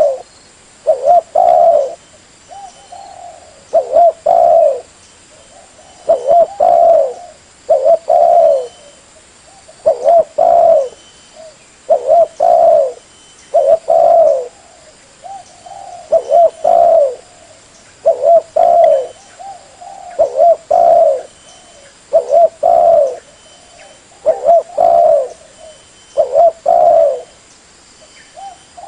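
Spotted dove cooing, a short phrase of a few coos repeated about every two seconds.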